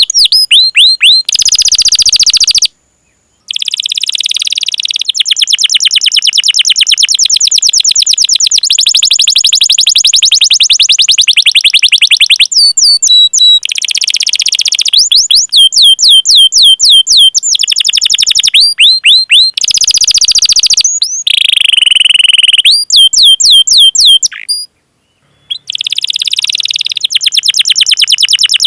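Domestic canary singing a long song of rapid rolling trills, each made of fast repeated high chirps, mixed with falling whistled notes and one held whistle. The phrases run almost without a break, with two short pauses.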